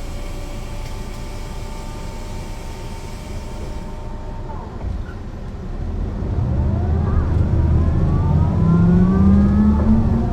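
Mercedes-Benz O 405 NÜ bus's diesel engine running steadily and quietly. About six seconds in it pulls away: the engine and drivetrain note gets louder and climbs in pitch, dropping back briefly near the end as the automatic gearbox changes up.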